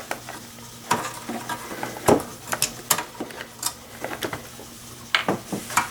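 Irregular clicks, knocks and light metallic clatter of parts being handled inside a Dell desktop PC case as its hard drive is taken out.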